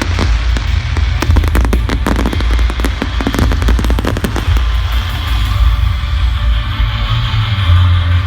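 Fireworks crackling and banging in rapid clusters over loud rock music with heavy bass; the crackling thins out about halfway through while the music carries on.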